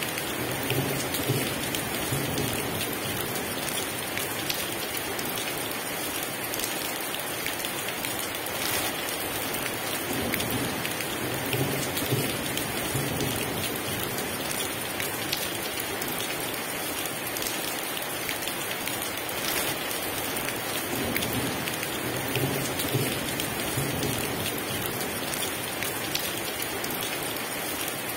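Heavy rain pouring steadily, with low rumbles of thunder coming back about every eleven seconds, three times in all.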